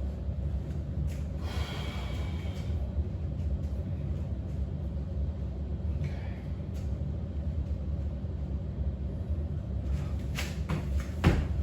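Steady low hum of room noise, with a person's breath, a sharp exhale about one and a half seconds in and a fainter one around six seconds, and a few light knocks near the end.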